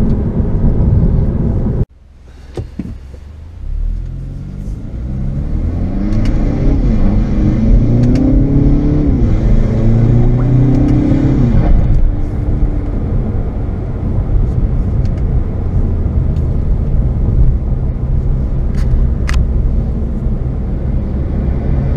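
Hyundai Veloster Turbo's turbocharged four-cylinder, fitted with an aftermarket intake, heard from inside the cabin while driving. After an abrupt cut about two seconds in, the engine pulls up through the revs with pitch climbing, dips once, climbs again and drops back near the halfway point. It then settles into steady cruising with low road rumble.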